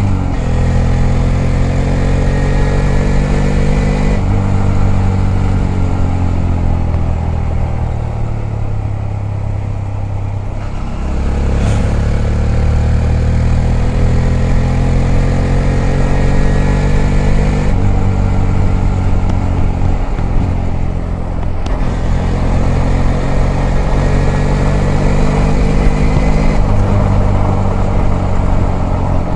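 Honda Grom's 125 cc single-cylinder four-stroke engine pulling under throttle, its note rising through each gear and dropping at every upshift. About a third of the way through it eases off and winds down, then accelerates again. Wind noise runs underneath.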